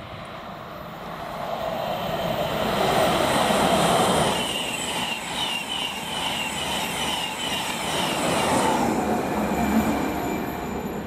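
Intercity express train passing through at speed without stopping: a rush of wheels on rail that builds to its loudest about four seconds in and stays loud as the long rake of coaches goes by. It carries a regular clicking, about two or three a second, through the middle of the pass.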